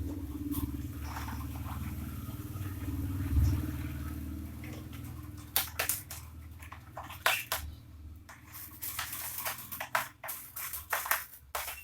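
Sharp clicks and knocks of a bird cage and its parts being handled. They start about halfway through and come thick and fast near the end, over a steady low hum that fades out.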